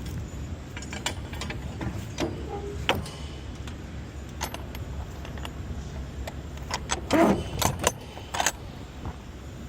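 Semi-truck engine running with a steady low rumble, under scattered clicks and rattles, loudest in a cluster of sharp clinks near the end.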